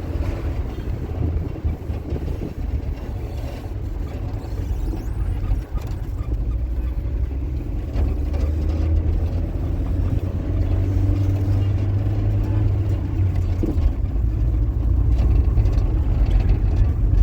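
A motor vehicle's engine runs steadily with a deep rumble, growing a little louder toward the end.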